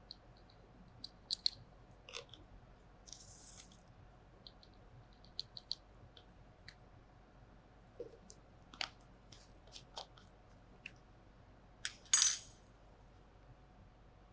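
Scattered light clicks and glassy tinks as magnesium sulfate crystals are added to a glass test tube, with a louder short rattle about twelve seconds in.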